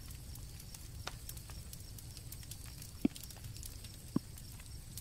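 Campfire crackling: scattered small snaps over a low steady rumble, with two louder pops about three and four seconds in. Crickets chirp faintly in the background.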